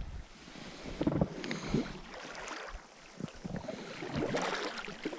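Scattered light knocks and rustling from handling on a kayak, irregular and fairly quiet.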